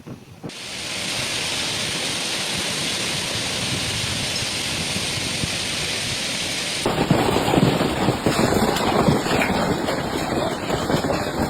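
Heavy rain falling in a thunderstorm, a steady hiss. About seven seconds in it changes abruptly to a louder, rougher storm sound with more low rumble.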